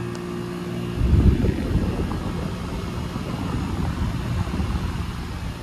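Heat pump outdoor unit humming steadily, then from about a second in a loud, gusty low rumble of air buffeting the microphone covers the hum.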